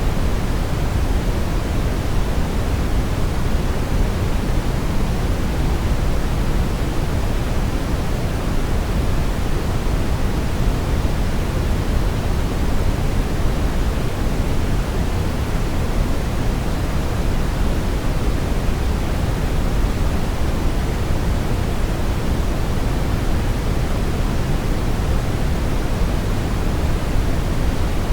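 Steady brown noise: a constant deep hiss, strongest in the low end and falling away toward the top, with no changes or events.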